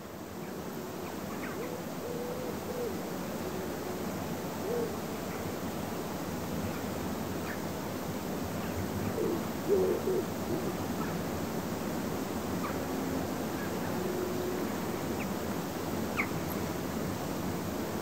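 Forest ambience: a steady hiss with scattered short, low hooting calls from a distant bird, loudest about ten seconds in, and a few brief high chirps.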